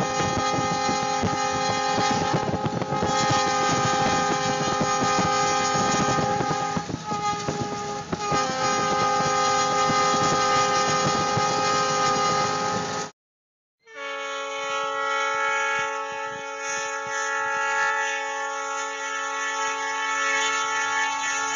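Diesel locomotive air horn blowing a long, steady chord of several notes over a rushing noise. It cuts off abruptly about 13 seconds in, and after a second of silence another horn chord sounds, with less rush behind it.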